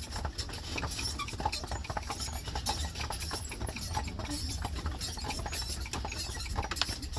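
Hooves of a two-horse team clip-clopping on the road as they pull a buggy along, a quick uneven run of clicks over a steady low rumble.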